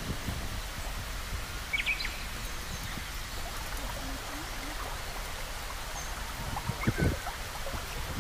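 Steady rush of flowing river water, with a few short bird chirps about two seconds in and again near the end, and some low thumps near the end.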